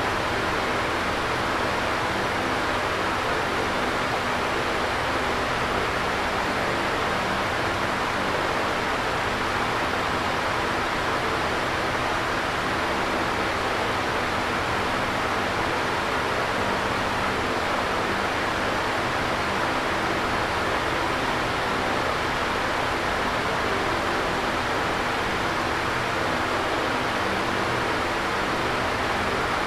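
Electric fan running steadily: an even whooshing rush of moving air with a faint low hum underneath, unchanging throughout.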